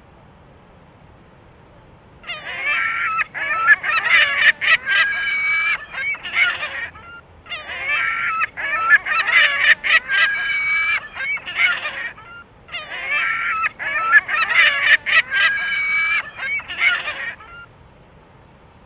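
Bird calls: a run of calls lasting about five seconds, played three times over in the same pattern with short gaps between.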